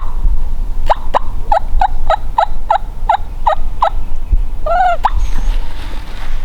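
Wild turkey yelping: a run of about a dozen short, evenly spaced yelps, three or four a second, followed by two louder single notes about five seconds in.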